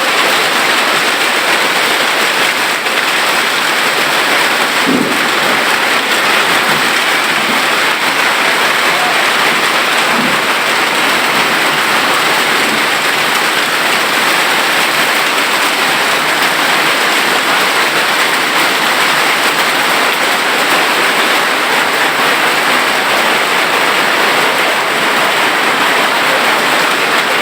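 Heavy hailstorm: hail and rain pelting down, a loud steady hiss without a break.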